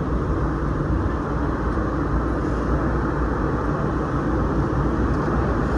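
Vintage subway train in motion, a steady rumble of wheels and running gear heard from inside its rear cab.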